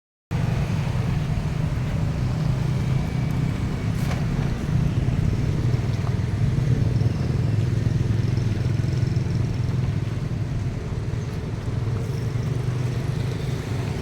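Steady low engine rumble, with a single click about four seconds in.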